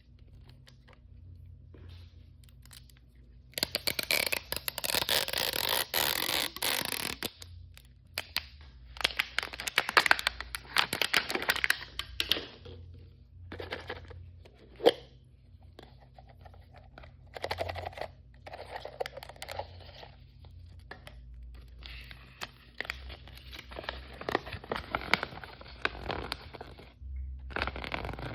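Blind-bag toy packaging being torn open and crinkled by hand, in several bursts of tearing and rustling with small clicks and handling noises between them.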